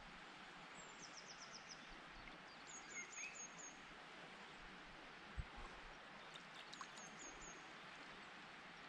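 Near silence: faint outdoor background with a small bird's quick, high chirps in three short runs, and one soft low thump about five seconds in.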